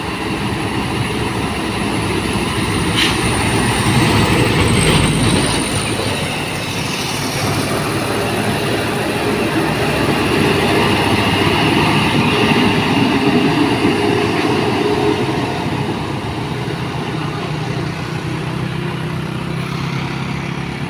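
Diesel engine of a heavily loaded truck labouring up a steep hill in a low gear, crawling slowly. Its noise swells twice as the engine works harder.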